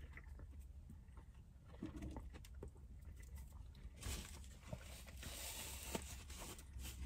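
Faint chewing of a bite of cheeseburger, with small mouth clicks. About four seconds in, paper held around the burger rustles and crinkles for a few seconds.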